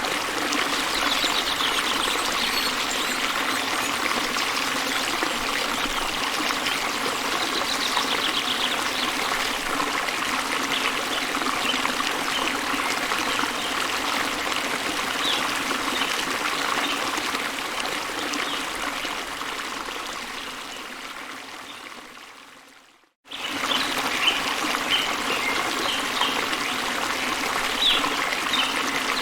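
Steady rush of a waterfall, with short bird chirps scattered through it. About twenty seconds in the water fades away over a few seconds to brief silence, then cuts back in suddenly.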